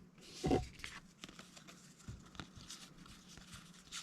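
Light handling of trading cards and box packaging: faint rustles and small clicks, with one brief louder sound about half a second in.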